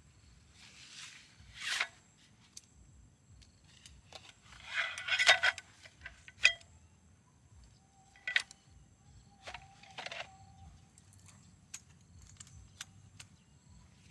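Objects being handled: a few rustles, the loudest about five seconds in, and scattered sharp clicks and light clinks, some ringing briefly.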